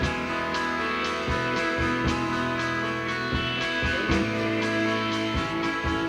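Live rock band playing an instrumental passage between vocal lines: two guitars over bass guitar and a drum kit.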